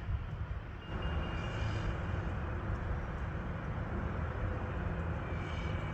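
Steady low rumble with a rushing hiss that swells about a second in and then holds: the persistent noise the resident complains of.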